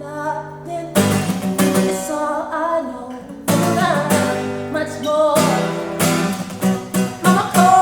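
Singing over a strummed acoustic guitar, with full chords struck about a second, three and a half and six seconds in and a wavering sung melody over them.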